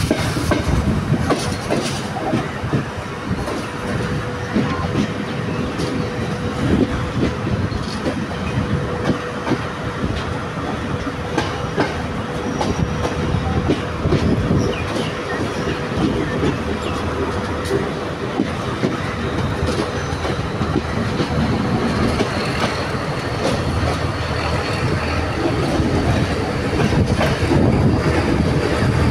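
Passenger train running through a rail yard, heard from aboard at an open side: irregular clacking of wheels over rail joints and points, with a faint, thin wheel squeal at times.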